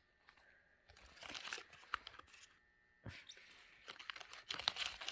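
Irregular crackly rustling and crunching, in two spells: one starting about a second in, and a longer one from about three seconds in.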